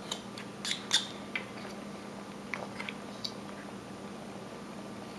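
Carving knife cutting into wood: a few short, crisp cuts and scrapes, clustered in the first second and a half and again around the middle.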